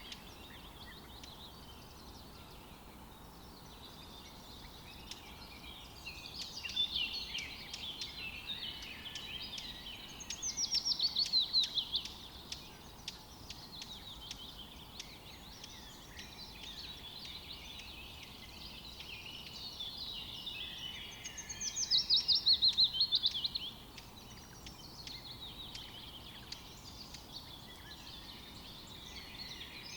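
Several wild birds chirping and calling over a steady faint outdoor hiss. Twice, about a third of the way in and again about three-quarters through, a louder rapid trill runs for a second or two, its notes falling in pitch.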